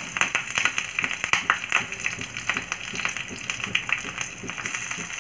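Slit green chillies sizzling in hot oil in a frying pan, with many irregular crackles and pops over a steady hiss, as they have just gone into the oil.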